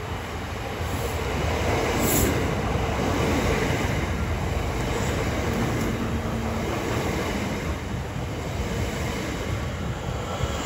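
A train running along the track, a steady noise of wheels on rail that swells over the first couple of seconds and then holds.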